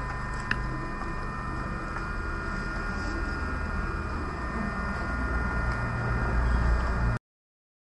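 Steady background noise with a low rumble and several steady high-pitched tones, and a single click about half a second in; it cuts off abruptly about seven seconds in.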